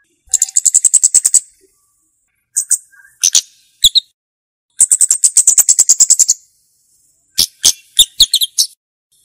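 Flowerpecker (cabe-cabean) calling: two rapid, high ticking trills of about ten notes a second, each lasting a second or more, with sharp single chips and short note clusters between them.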